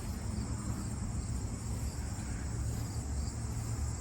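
Insects trilling steadily in the background over a low, steady rumble.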